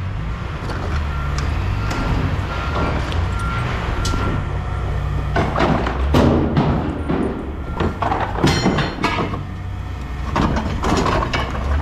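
Engine rumbling steadily under a faint beep repeating about twice a second for the first few seconds, then irregular clattering and knocking of scrap metal being handled from about halfway through.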